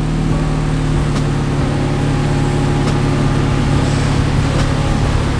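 Infiniti Q50 3.0t's twin-turbo V6 running through a new Invidia cat-back exhaust at a steady engine speed, a loud even drone that holds its pitch.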